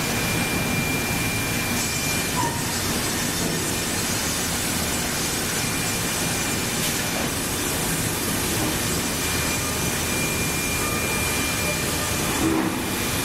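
Sawmill multi-blade bandsaw resaw running, with its conveyors: a steady mechanical din and a thin high whine that comes and goes twice.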